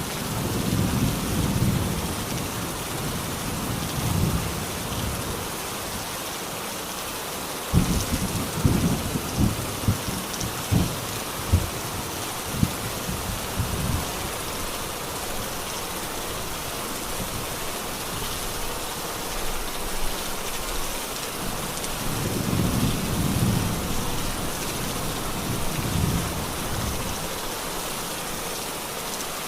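Steady heavy rain with thunder: low rumbles roll in and out several times, and about eight seconds in a close peal cracks sharply over several seconds.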